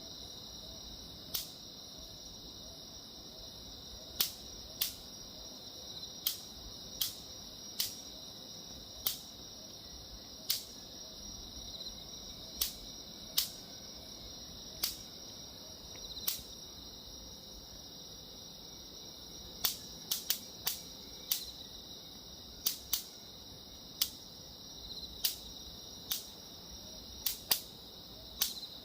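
An electric mosquito zapper snapping as mosquitoes hit the charged grid. About two dozen sharp cracks come at irregular intervals, sometimes two or three in quick succession, over a steady high-pitched background hum.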